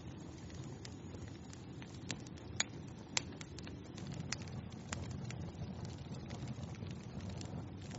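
Wood fire burning in a fireplace: a steady low hiss with scattered sharp crackles and pops, the loudest two about two and a half and three seconds in.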